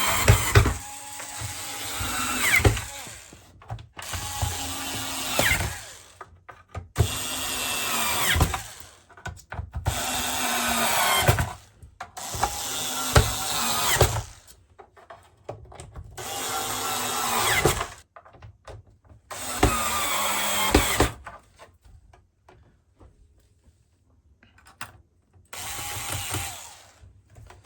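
A cordless power screwdriver driving screws back into a shower unit's casing. It runs in about eight or nine short bursts of a second or two each, its motor pitch sliding as each screw tightens.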